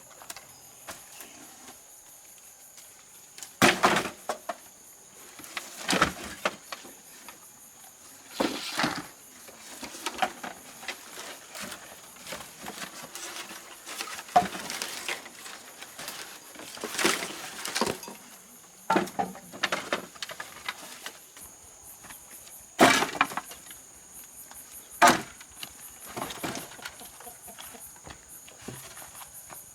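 A steady high insect drone in the background, with about eight irregular sharp knocks and crunches every few seconds, the loudest about a quarter of the way in and two near the end.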